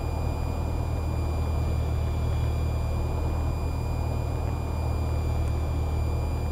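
Cessna 172R's four-cylinder Lycoming engine and propeller droning steadily, heard inside the cabin, with a faint steady high-pitched whine over it.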